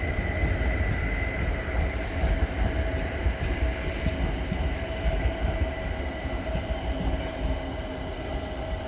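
London Overground Class 378 electric train arriving at a platform: a steady rumble of wheels on rail with a held whine, growing gradually quieter as it comes in.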